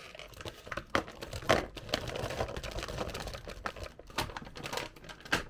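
Plastic packaging of gummy candies crinkling as it is handled, with scattered light clicks and taps.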